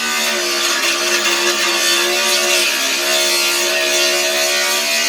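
Angle grinder running steadily under load, grinding spot welds off the sheet-metal firewall and engine bay: a steady motor whine over a hissing grind.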